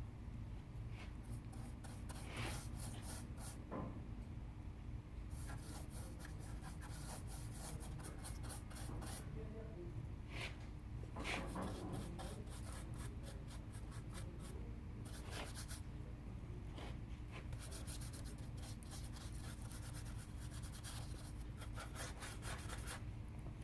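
Light rubbing and scraping on wood in short scattered strokes, over a steady low hum.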